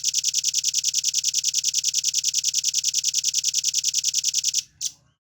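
Velvet-fronted nuthatch giving a fast, even trill of high-pitched notes, about nine a second, for over four seconds. It stops, gives one last note, and falls silent.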